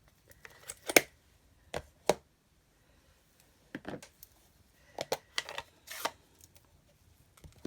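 Scattered sharp clicks, taps and short scuffs of craft supplies handled on a desk, as a plastic ink pad and rubber stamps are picked up, opened and set down.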